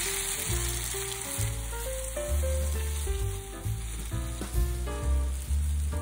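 Somen noodles bound with egg and cheese frying in olive oil in a pan, a steady sizzle, while metal cooking chopsticks spread them across the pan. Soft background music with a bass line plays underneath.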